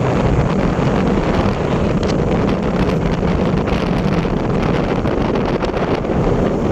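Wind buffeting the microphone: a steady, loud rumble of rushing air with no distinct events.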